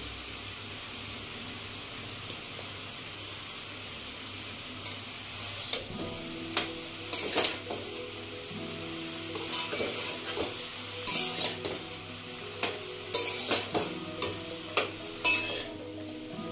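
Spinach, potato and brinjal sizzling steadily in oil in a kadai. From about six seconds in, a metal spatula scrapes and knocks against the pan in quick, irregular strokes as the greens are turned and mixed.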